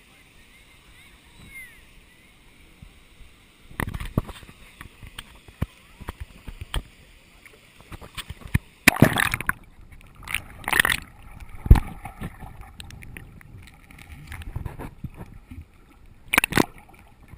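Water splashing and sloshing in irregular bursts after a quiet start, with a sharp knock about two-thirds of the way through.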